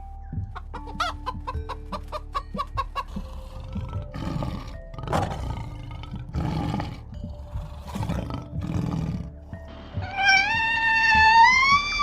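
Animal calls over soft background music. Quick, clucking-like calls come first, then harsh cries, then one long call from about ten seconds in that rises, holds, and drops away at the end.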